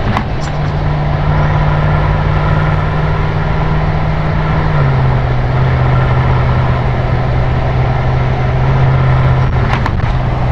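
BMW M6 Gran Coupe's twin-turbo V8 running at steady cruise through an Akrapovič Evolution Line exhaust, over tyre and road noise. The engine note drops to a lower steady pitch about halfway through. A few brief ticks come near the end.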